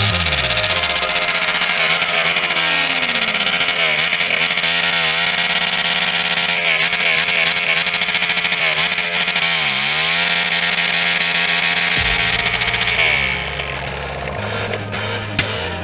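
High-revving motorcycle engines, loud and buzzy, their pitch dipping and climbing again several times as the revs drop and pick up. Near the end the engine noise eases and a music bass line comes back in.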